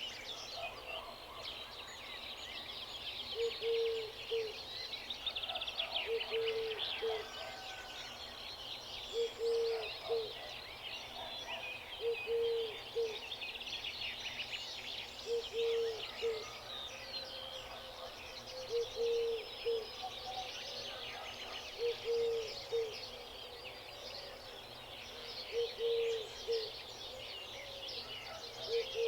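Many small birds chirping and twittering together in a continuous dawn-chorus-like mix, with a low, short call from another bird repeated about every three seconds.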